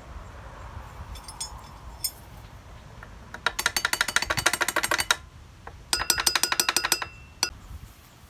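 Ratchet wrench being worked: two runs of rapid metallic clicks, about a dozen a second, the first about a second and a half long and the second about a second.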